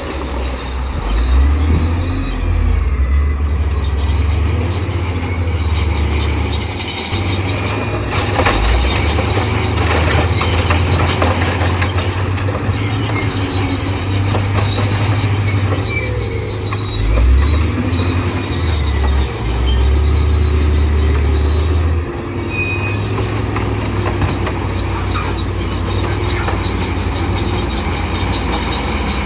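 Crawler bulldozer's diesel engine working with a heavy low drone that rises and falls, along with the squeal and rattle of its steel tracks.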